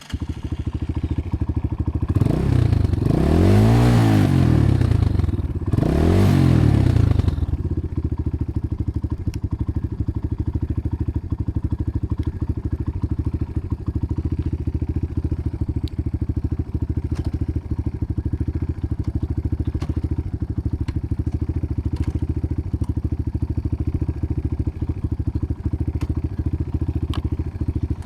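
KTM dirt bike engine running just after starting, revved up and back down twice, about two seconds in and again about six seconds in, then settling into a steady idle.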